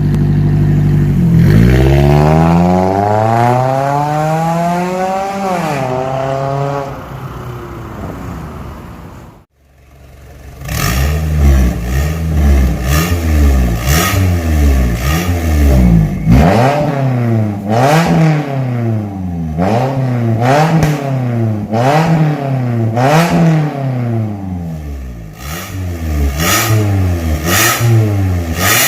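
Toyota Camry engine revving through an aftermarket valved stainless-steel catback exhaust. One long rev rises and falls over the first seven seconds. After a brief cut, a run of quick blips follows, about one every 1.2 seconds, with sharp cracks among them.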